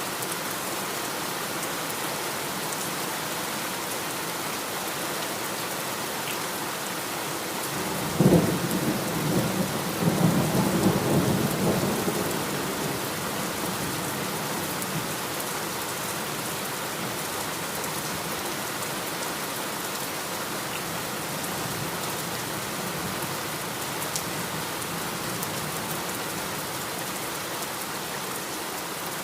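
Heavy rain falling steadily, with a thunderclap about eight seconds in that cracks sharply and rolls on for several seconds before fading back into the rain.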